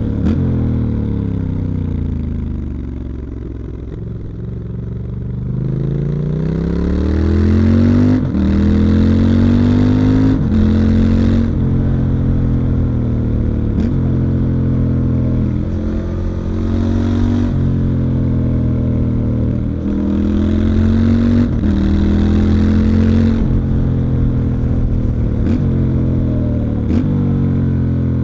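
Stock 2019 Triumph Scrambler 1200 XE's 1200 cc parallel-twin heard onboard: the engine note falls for a few seconds, then the revs climb and drop again and again, with short breaks every two seconds or so as the rider works the throttle and gears.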